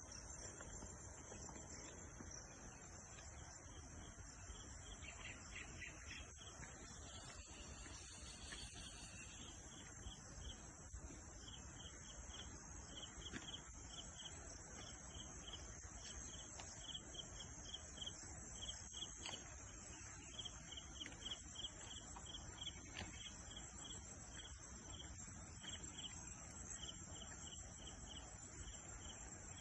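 Crickets chirping faintly in a steady high trill, with a second, lower pulsed chirping that repeats over and over through most of the stretch.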